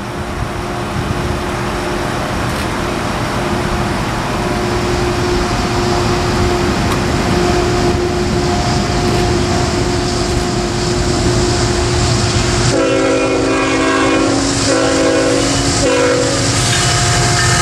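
Norfolk Southern train rumbling past with a steady whine, then its horn sounds in several blasts from about 13 seconds in, a long blast followed by shorter ones.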